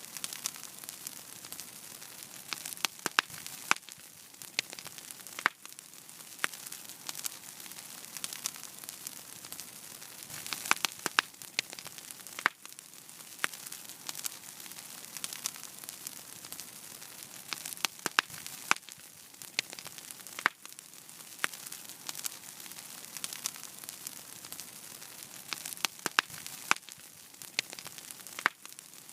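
Wood fire burning in a fireplace: a steady soft hiss with frequent sharp, irregular crackles and pops, some in quick clusters.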